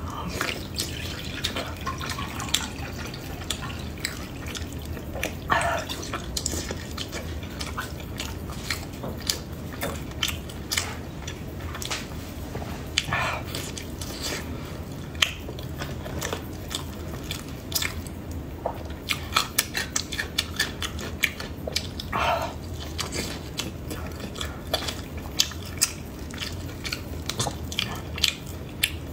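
Close mouth sounds of eating braised pig intestine stuffed with pig brain: soft bites and wet chewing, with many short smacking clicks throughout.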